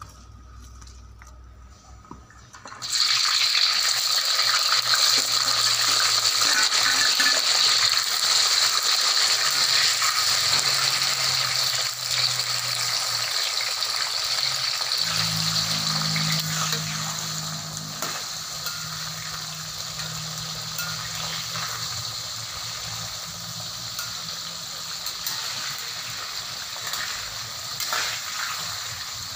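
Sambal ingredients (red chillies, tomatoes, garlic and shallots) sizzling in hot oil in a wok, turned now and then with a metal spatula. The loud sizzle starts suddenly about three seconds in and eases a little past the middle.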